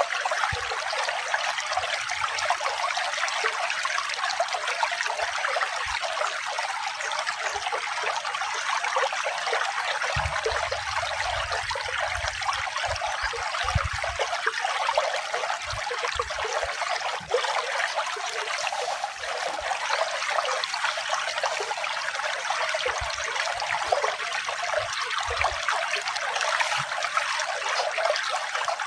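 Running water trickling and splashing steadily, with no change in level.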